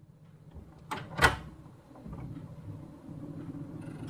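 Two sharp knocks about a second in, a quarter-second apart, the second one louder, over a low steady hum that slowly grows louder.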